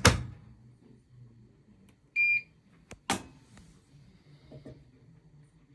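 Bosch Serie 4 washing machine being set up: a sharp click, then a single short electronic beep from its control panel about two seconds in, then another click a second later, over a faint low hum.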